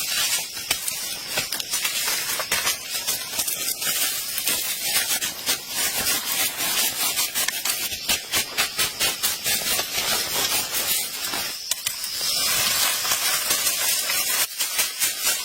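A steady bright hiss crackling with many small clicks.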